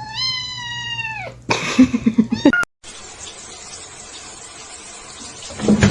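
Cat yowling: a long drawn-out howl that wavers, then falls and stops about a second in. A short rough, noisy outburst follows, then a steady hiss with a brief thump near the end.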